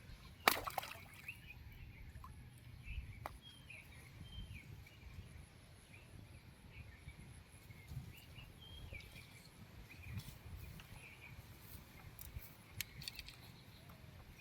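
Small birds chirping over a low rumble of wind or handling, with a sharp click about half a second in and a few faint ticks near the end.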